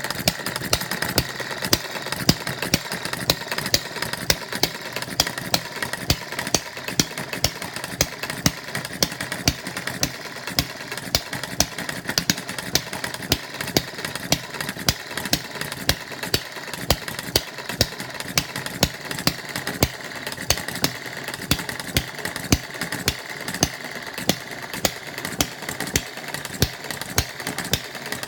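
Model hit-and-miss engine, built all from bar stock, running steadily, with sharp, evenly spaced firing pops about twice a second.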